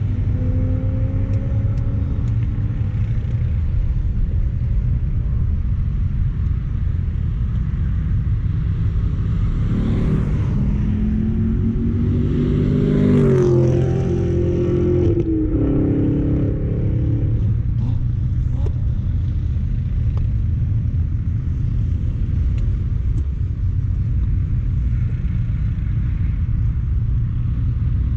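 1999 Mazda Miata's turbocharged four-cylinder engine running at track speed, heard from inside the cabin over a steady low road and wind rumble. From about ten seconds in, the engine note climbs under acceleration for several seconds, with a drop between gears.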